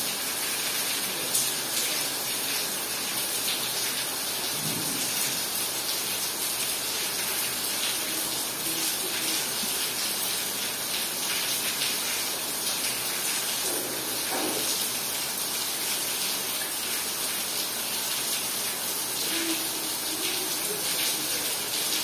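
Heavy rain pouring down in a steady, even rush of a downpour.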